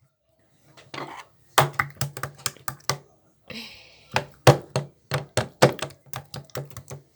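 Runs of quick, sharp taps or knocks, several a second, in bursts with short gaps between them, and a brief hiss a little past the middle.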